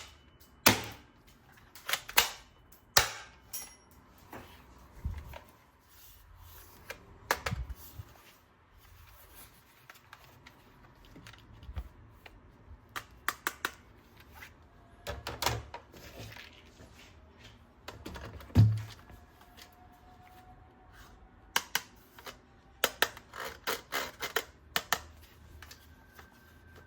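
Hard plastic toy gun parts being handled and snapped: irregular sharp clicks and clacks, some in quick runs of several, with a heavier knock a little after the middle.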